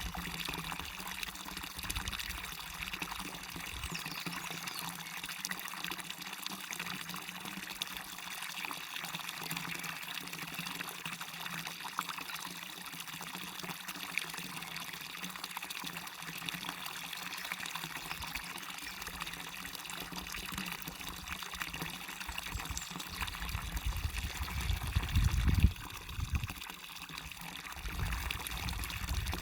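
Waterfall and river water running steadily. Near the end a low rumble swells, peaks and cuts off suddenly.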